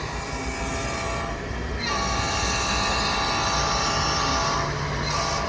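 HO scale model locomotive's sound-system horn blowing one long, steady multi-note chord starting about two seconds in, over the hum of a busy exhibition hall.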